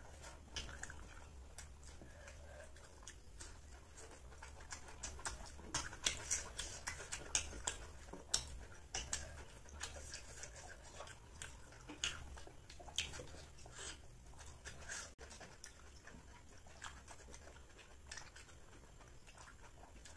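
Close-up eating sounds of people chewing mouthfuls of chicken biryani: wet chewing and lip smacks heard as a scattered run of soft clicks, busiest in the middle, over a low steady hum.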